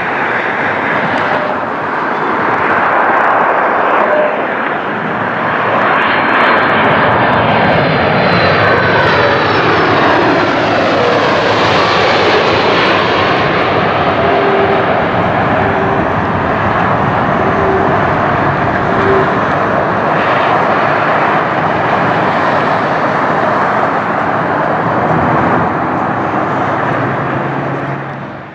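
Airliner passing close by, its engines a loud steady roar with a pitch that sweeps downward as it goes past. The sound cuts off suddenly at the end.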